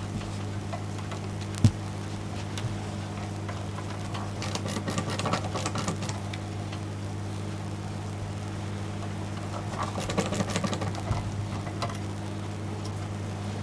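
Phillips screwdriver turning out small screws from the metal back plate of a DAC's case: scattered light scratching and clicking in two spells, with one sharp click about two seconds in. A steady low electrical hum runs underneath.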